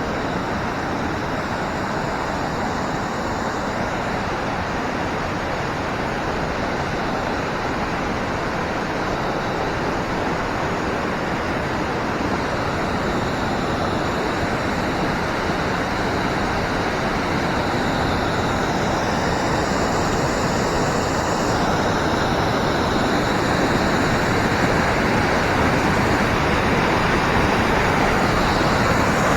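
Waterfall running heavy after rain: a steady rush of falling water that grows a little louder toward the end.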